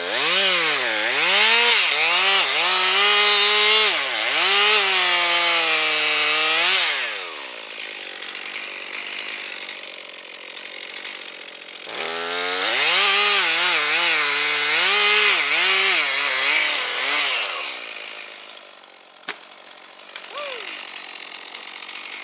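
Two-stroke chainsaw running in two long stretches, its engine pitch rising and dipping again and again as it is throttled and loaded in the cut. It runs quieter for a few seconds between the stretches and after the second, with a single sharp click near the end.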